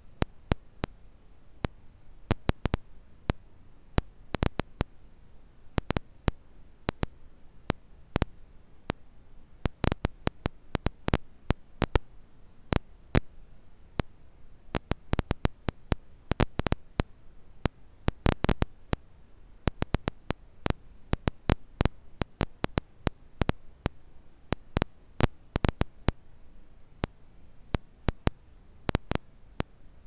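Campfire crackling: sharp, irregular pops and snaps, often in quick clusters, over a faint low background.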